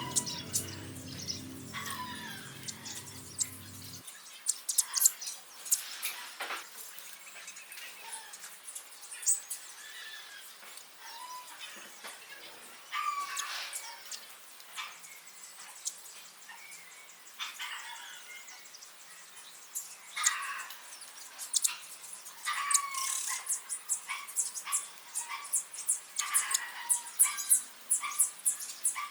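Small birds chirping in short, high calls, with quick sharp clicks mixed in, busiest near the end. Background music stops about four seconds in.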